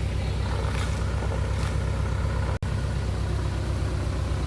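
Truck engine idling steadily with a low, even rumble. It cuts out for an instant about two and a half seconds in.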